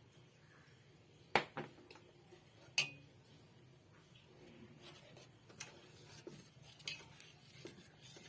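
A spoon clinking against a cooking pot: two sharp knocks in the first three seconds, then a few lighter taps.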